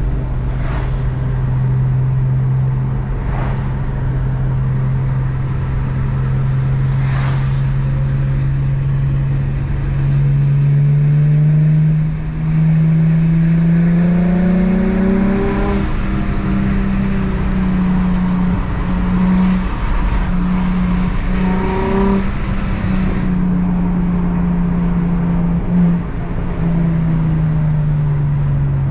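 Infiniti G35 coupe's 3.5-litre V6 under way through a Z1 M Spec dual exhaust. It holds a steady drone, then climbs in pitch under acceleration about a third of the way in, with a short break in the sound partway through the climb. It stays at the higher note for a while, then drops away as the throttle eases near the end.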